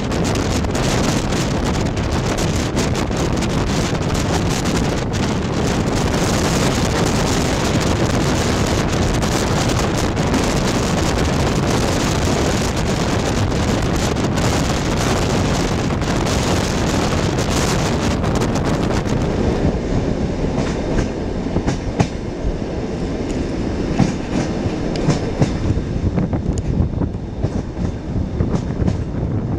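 Passenger train running on its rails, heard from aboard: a steady loud rumble and hiss of wheels and carriage. About two-thirds of the way through the sound turns duller and a few separate clacks of the wheels over rail joints stand out.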